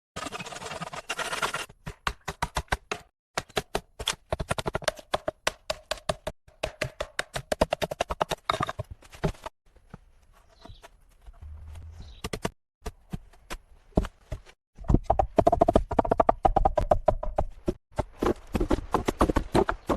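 Rapid, irregular knocking and tapping, coming in bursts several strikes a second with short pauses between them and a quieter stretch about ten seconds in.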